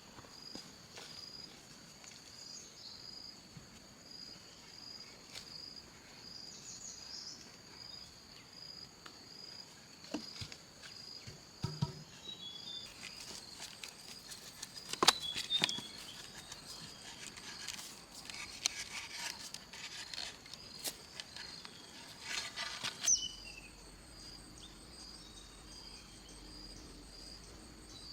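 An insect calling in a steady pulsing rhythm of about two chirps a second, with scattered sharp knocks and clicks.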